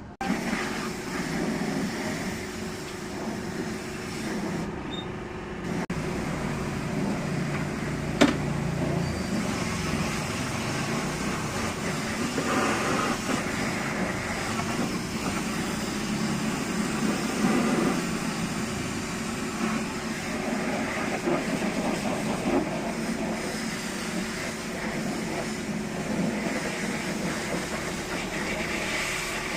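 Steady mechanical running noise with a constant hum, starting abruptly at the outset, with a single sharp click about eight seconds in.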